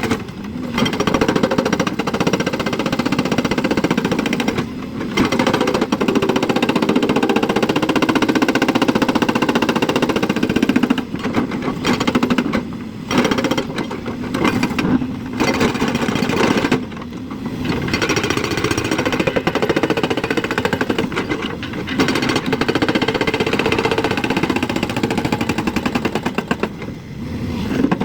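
JCB excavator's diesel engine running with a heavy, rattling note; its level drops briefly and comes back several times.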